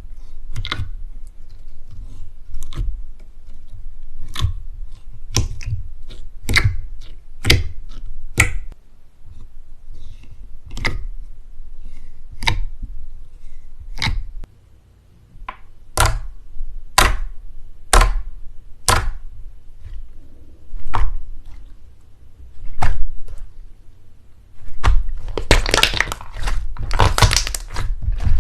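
Slime being handled by hand: a series of sharp pops and cracks, roughly one a second, with a dense run of crackling near the end.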